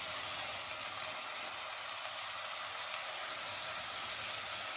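Ghee sizzling steadily in a pressure cooker around frying split green moong dal and freshly added rice.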